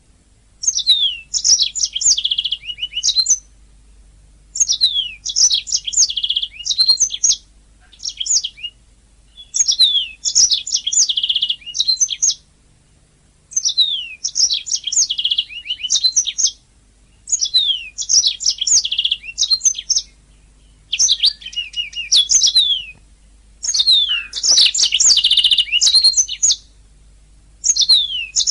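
Domestic canary singing: phrase after phrase of fast trills, quick downward-sweeping whistled notes and rolling buzzy passages, each phrase lasting a couple of seconds, with short pauses between.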